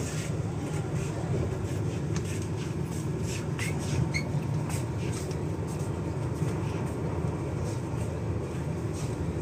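Vande Bharat Express electric train running at speed, heard inside the coach as a steady low rumble, with a few light clicks in the middle.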